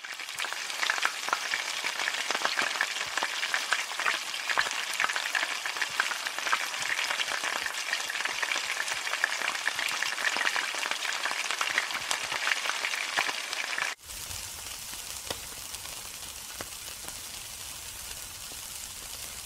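Food frying in hot oil, sizzling and crackling with many small pops. About fourteen seconds in it cuts abruptly to a quieter, steadier hiss.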